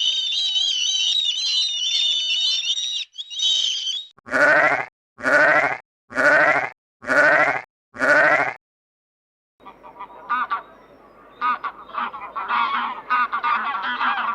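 Animal calls in three parts: a high, warbling chatter for about three seconds, then five short, evenly spaced calls about a second apart, then many overlapping calls as from a flock, starting about ten seconds in.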